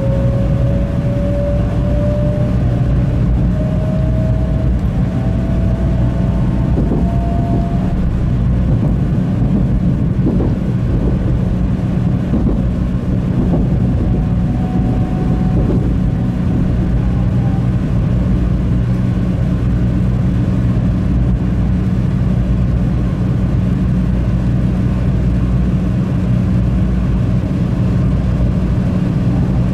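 Shinkansen bullet train heard from inside the car while running: a steady, loud low rumble, with a faint whine that rises slowly in pitch over the first several seconds.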